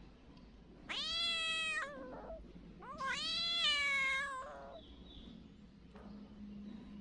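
Mother cat meowing twice, a long call each time, the second longer and louder, calling for her missing kittens.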